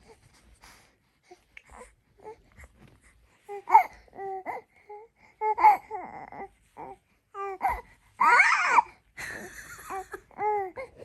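Baby vocalising: a run of short high-pitched squeals and babbling cries starting a few seconds in, with the loudest, harshest screech about two-thirds of the way through.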